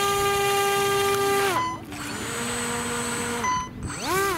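Electric radio-controlled boat motor whining at a steady high pitch, dropping off about one and a half seconds in, running lower for a couple of seconds, then revving back up near the end.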